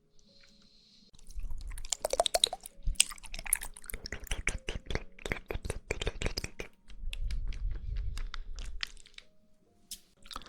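Close-miked mouth sounds of someone eating jelly: wet chewing and squishing with many quick clicks. It starts about a second in and stops about a second before the end.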